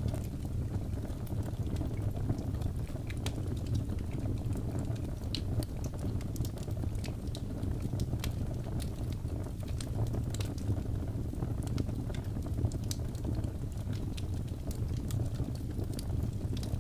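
Wood fire burning: a steady low rumble of flames with frequent small crackles and pops of burning wood.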